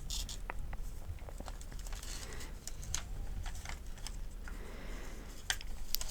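Paper medication guide sheets being handled and rustled, with scattered light clicks and crinkles.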